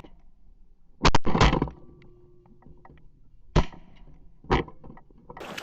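Shotgun shots at a flock of green-winged teal: a quick volley about a second in, then two single shots, about 3.6 and 4.5 seconds in.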